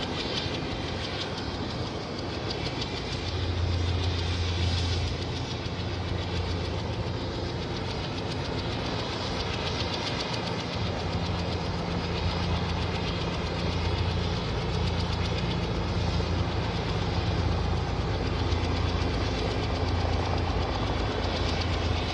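Bell 206 helicopter's Allison 250 turboshaft engine running during start-up, with a steady low hum and a faint high whine, the main rotor beating in a regular rhythm. It grows a little louder about three seconds in.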